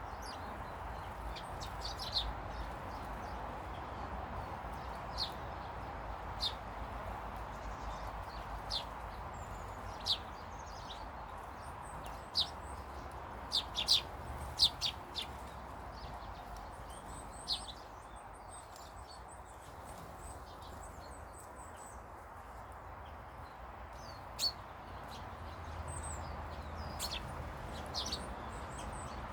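Small birds chirping in short, separate high calls, scattered and irregular, with a cluster of louder chirps about halfway through, over a steady background hiss and low rumble.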